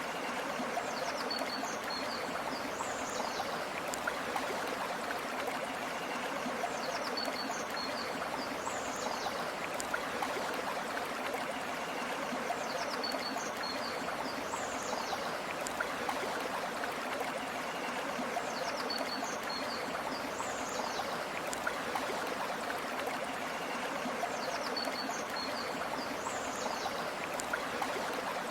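River water flowing steadily in an even rush. A short high chirping call recurs about every six seconds.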